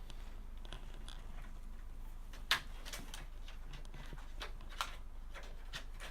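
Scattered light clicks and taps of computer parts being handled and fitted during a PC build, with one sharper click about two and a half seconds in, over a low steady hum.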